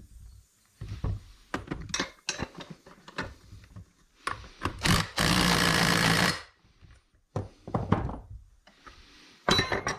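Hand tools and metal parts being worked: a string of separate knocks, clicks and clanks. About five seconds in comes a loud burst of noise lasting about a second, and near the end a quick cluster of sharp clicks.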